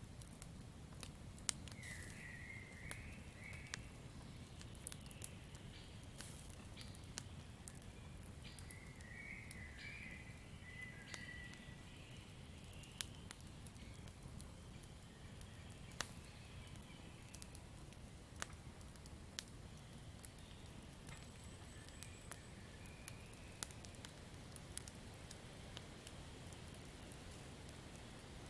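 Campfire crackling: irregular sharp pops and snaps over a low, steady rumble of burning wood.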